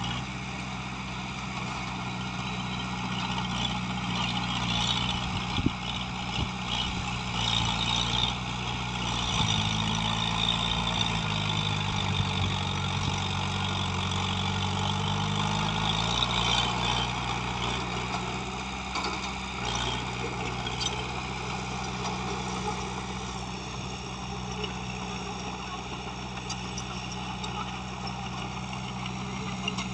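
Diesel engine of heavy earthmoving machinery running steadily. Its pitch drops lower about ten seconds in and comes back up around sixteen seconds, with scattered knocks and clanks in the first third.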